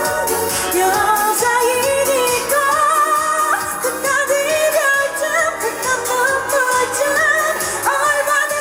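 Female vocalists singing a Korean pop song live over an amplified backing track through a PA system.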